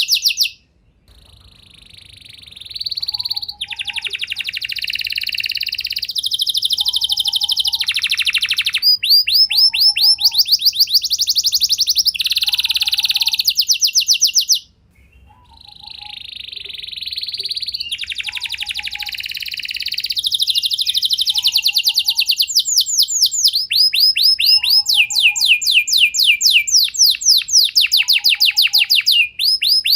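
Domestic canary singing a long, continuous song of fast trills and rolled, repeated notes, with two short breaks: about a second in and again around halfway.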